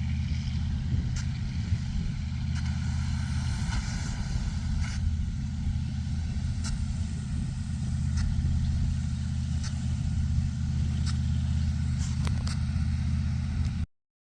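A large engine running steadily at a constant speed, with a deep, even hum and some faint ticking. It cuts off abruptly near the end.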